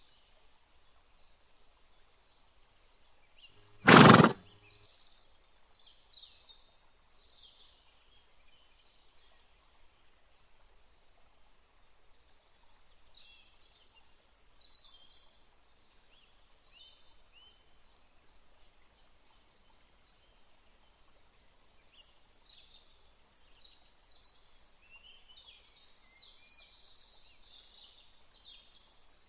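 A single short, loud animal call about four seconds in, followed by faint, scattered high chirping for the rest of the time.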